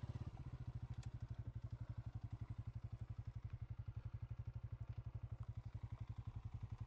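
Honda CG125's air-cooled single-cylinder four-stroke engine running steadily at low revs, a regular thudding beat of about a dozen pulses a second.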